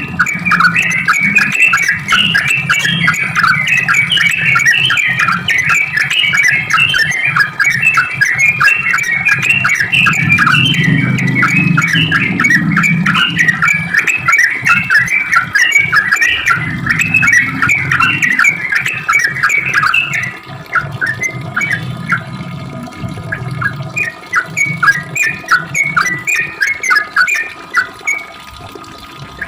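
Yellow-vented bulbul (trucukan) song: a long, rapid chatter of short bubbling notes, dense for about twenty seconds and then thinning to scattered phrases. A low hum runs underneath.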